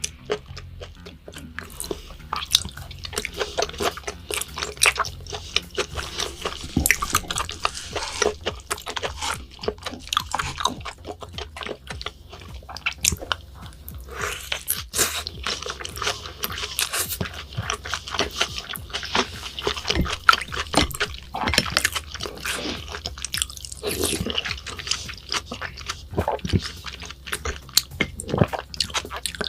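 Close-miked eating sounds: wet chewing and biting with frequent sharp mouth clicks and some crunching, as raw beef and rice dishes are eaten.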